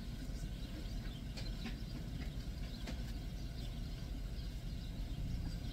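Steady low rumble of a car's engine idling, heard from inside the cabin, with a few faint small clicks from sipping a drink through a straw.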